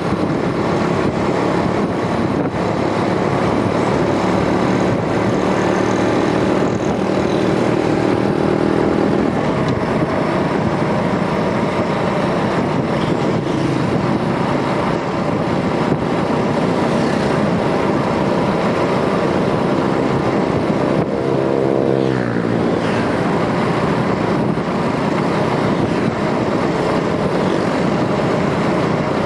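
Rusi DL125 motorcycle engine running on the move, under a steady rush of wind and road noise. About two-thirds of the way through, the engine note drops and then climbs again.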